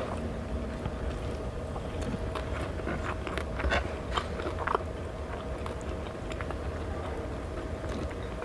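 A person chewing and biting food close to the microphone, with a few sharp crunches between about two and five seconds in, over a steady low hum.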